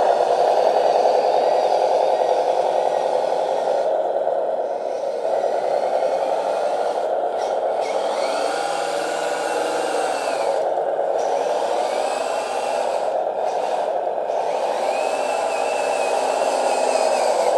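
Capo 1/18 Tatra RC truck driving slowly, its electronic engine-sound module running steadily through the truck's small speaker over the whir of the drive motor and gears. A fainter whine rises and falls several times.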